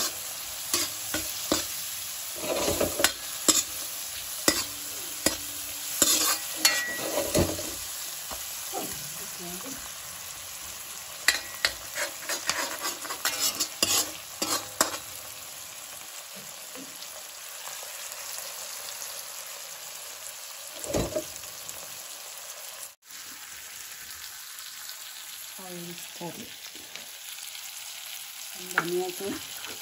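Onions, tomatoes and green chillies sizzling as they fry in oil in a wok, with a metal spatula scraping and knocking against the pan as they are stirred. The stirring strokes come thick and fast for the first half, then thin out to an occasional knock over a steady sizzle.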